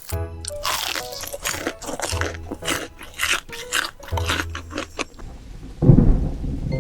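Loud crunching bites into crisp food, irregular crunches over light background music. Near the end a loud low rumble comes in.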